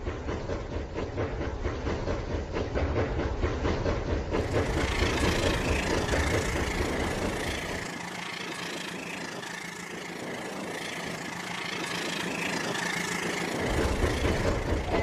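Rail King toy train running on its track: a continuous motor whir with fast rattling clicks. The sound changes about four seconds in, and the low rumble drops away for several seconds in the middle.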